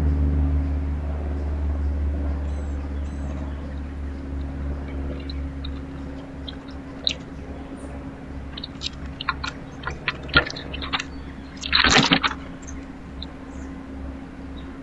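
Low, steady engine hum that slowly fades away. From about seven seconds in it is joined by scattered sharp clicks and taps, and about twelve seconds in by a short, loud rustling burst.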